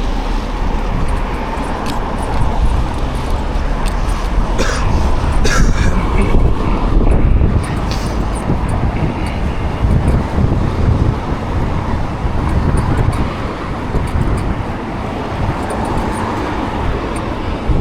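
Road and traffic noise heard from a moving e-bike, a steady low rumble throughout, with a few brief clicks or rattles around five seconds in.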